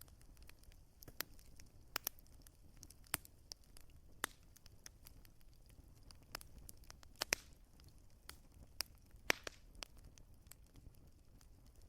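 Wood fire crackling in a fireplace: irregular sharp pops and snaps over a faint low rumble, with a few louder pops among the small ones.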